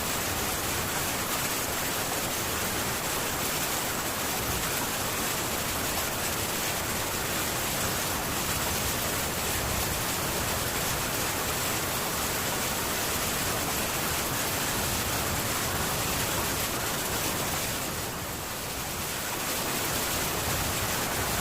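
Heavy rain on a metal tin roof, a steady, even hiss with no thunder, easing briefly near the end.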